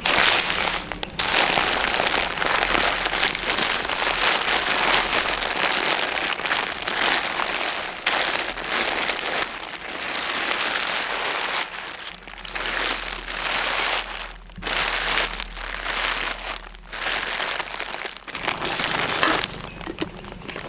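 Dense crackling and sizzling, as of food frying in hot oil in a pan, broken by brief pauses about two thirds of the way through.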